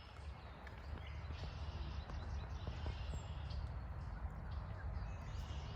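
Outdoor ambience: a steady low rumble, with a faint, short, high bird chirp about three seconds in.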